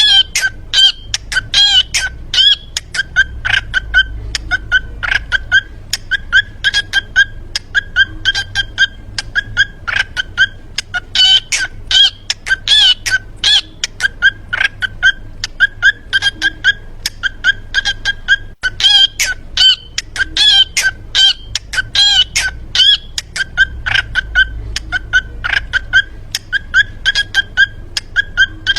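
Parrot calling in a rapid string of short, repeated squawks, several a second, over a low steady hum.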